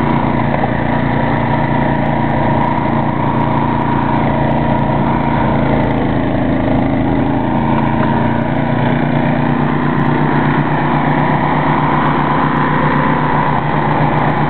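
Ariens snow thrower's engine running steadily under load.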